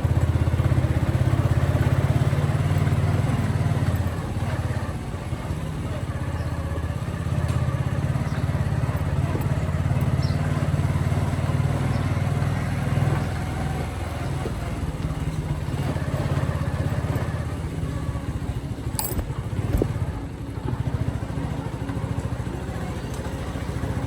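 Motorcycle engine running steadily while riding, with a low, even drone and a sharp click about nineteen seconds in.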